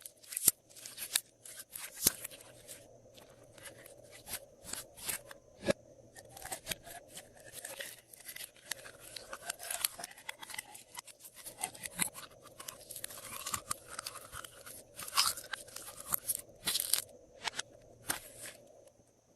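Slime being kneaded, stretched and pressed by hand, giving a continuous stream of irregular sticky clicks, pops and crackles.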